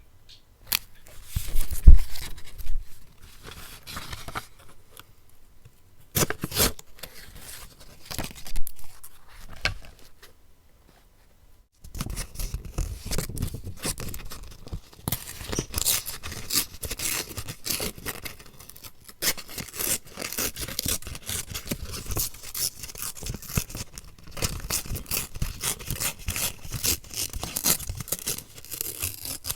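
Paper being cut with scissors: scattered clumps of crisp snips for about ten seconds, a near-silent pause of about two seconds, then a long, continuous run of close cutting.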